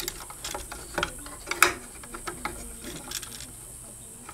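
Irregular clicks, knocks and scrapes of electrical wires and an outlet being pushed into a metal electrical box, the sharpest knock about a second and a half in.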